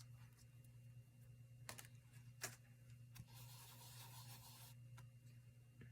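Near silence, with a few faint taps and, a little past halfway, a brief soft scratching: a small stencil brush dabbing and brushing ink onto paper through a lace stencil.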